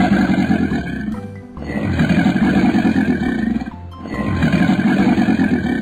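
Growling sound effect for a cartoon crocodile: three long, rough growls, the middle one the longest, over background music.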